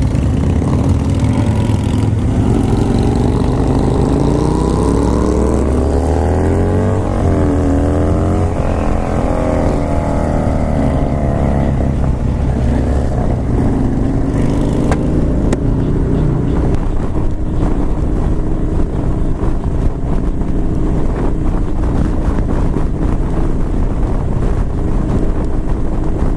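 Harley-Davidson Dyna Street Bob's V-twin engine accelerating through the gears. Its pitch climbs, drops at a shift about seven seconds in and climbs again, then settles into a steadier run.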